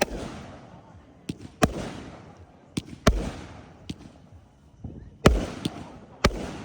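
Fireworks going off: a string of sharp bangs and booms, about nine in under seven seconds, each trailing off in an echo, the loudest about five seconds in.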